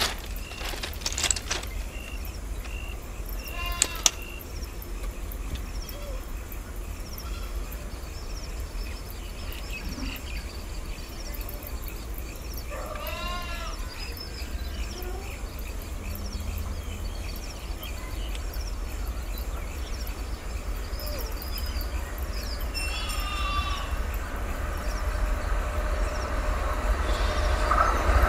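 A WAP-7 electric locomotive and its express train approaching. Its low rumble grows steadily louder toward the end. An animal calls briefly about halfway through.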